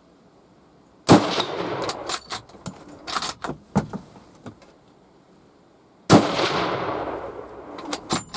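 Two gunshots at hogs about five seconds apart, each followed by a long fading echo, with sharp clicks and knocks between them. The first shot drops a hog; the second is a follow-up shot that strikes a tree.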